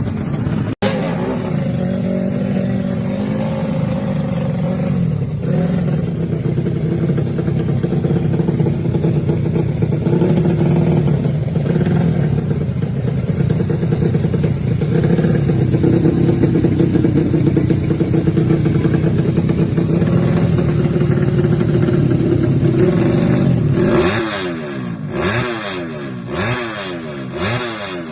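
A 130cc underbone drag-bike engine running at a steady speed. In the last few seconds it is revved in a series of quick rising and falling blips.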